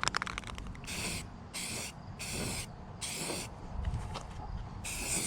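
Aerosol spray can of sandable primer being sprayed in five short bursts of hiss, each about half a second, with a few rattles of the can's mixing ball at the start.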